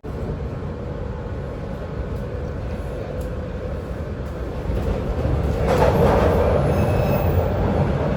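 Subway train running, a steady low rumble that grows louder about five and a half seconds in.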